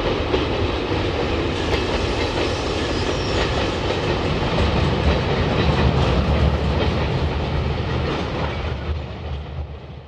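Diesel-hauled freight train running by, a steady low rumble with wheel and wagon noise that fades out near the end.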